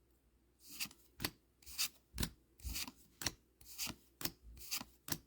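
Score Dragon Ball Z trading cards being flipped through one at a time, each card sliding off the stack with a short, sharp swish, about two a second, starting about a second in.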